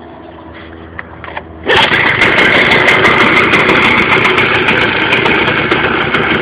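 Victa 160 cc two-stroke lawnmower engine on a go-kart, running quietly at first; a little under two seconds in it suddenly becomes much louder and then runs on steadily at idle while warming up.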